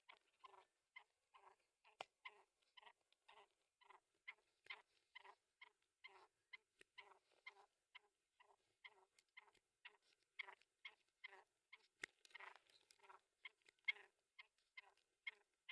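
Black francolin giving short, rapid calls, about two or three a second, while fighting a hand, with a sharp click about two seconds in and again near the end.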